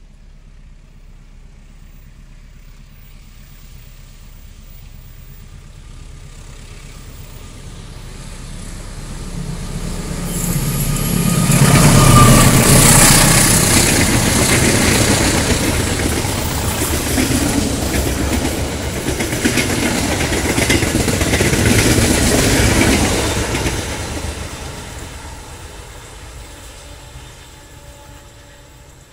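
Passenger train hauled by a CC201 diesel-electric locomotive approaching and passing close by, with a busy clatter of wheels on the rails. It grows from about a third of the way in, is loudest through the middle, and fades away near the end.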